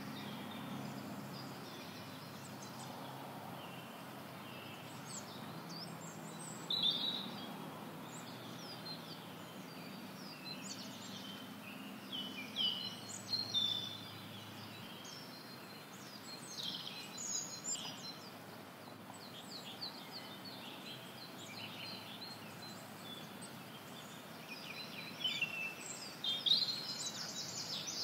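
Several songbirds singing and chirping at irregular intervals, with a cluster of calls near the end, over faint outdoor background noise and a low hum that fades out about halfway through.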